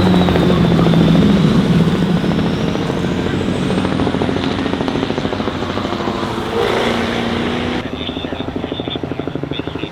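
A car engine running hard as the car passes, its pitch falling away, then rising again briefly. Near the end it gives way to a lower, rapid, even pulsing.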